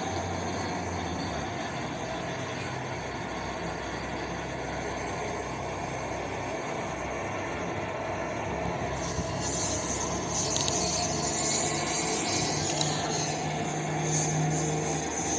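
Inside a running MTR M-Train (Metro-Cammell electric multiple unit): steady rumble of the car and its wheels on the rails. A high hiss joins about nine seconds in, and a low steady hum rises near the end.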